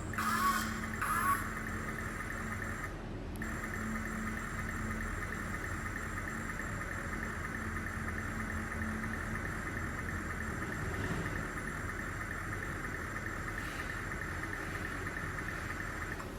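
Tiny geared electric motor of a 1/64-scale mini RC forklift running with a steady whir, after a few short spurts about a second in.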